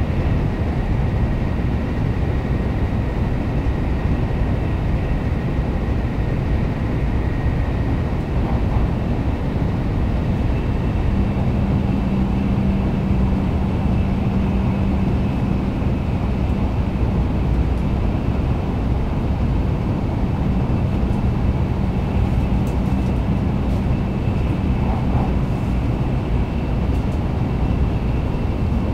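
Kyushu Shinkansen train running at speed, heard inside the passenger cabin: a steady low rumble, with a low hum joining partway through.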